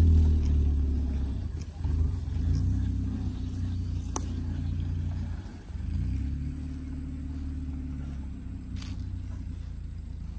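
A car engine running at low revs under load while it tows a dead car on a chain: a steady low hum that drops away briefly twice and picks up again. A single sharp click about four seconds in.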